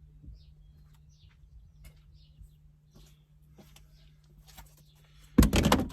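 Faint bird chirps, short falling notes about twice a second, over a low steady hum and a few light clicks. Near the end comes a sudden loud burst of noise lasting about half a second.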